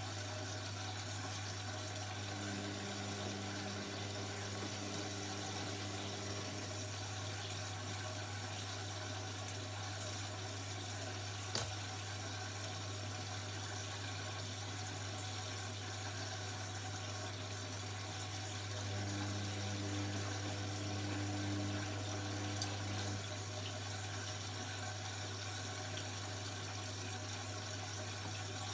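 Indesit 71252 washing machine running mid-cycle with water in the drum: a steady low hum, with the drum motor turning in two spells of a pitched hum, about two seconds in and again near the twenty-second mark. A single sharp click comes near the middle.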